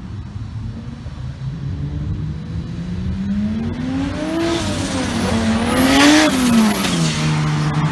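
Car engine accelerating hard past, revving up through one gear change, loudest about six seconds in, then dropping in pitch and settling to a steady drone near the end.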